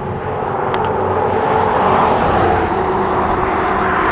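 Road traffic passing: tyre and engine noise swells to a peak about two seconds in and stays loud.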